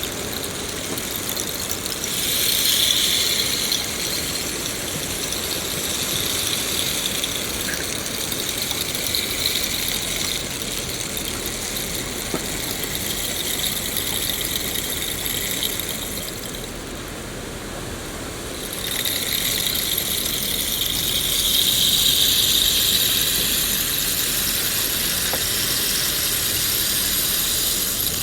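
Steady rain falling in a continuous hiss that swells and eases, dropping off briefly about two-thirds of the way through before picking up again.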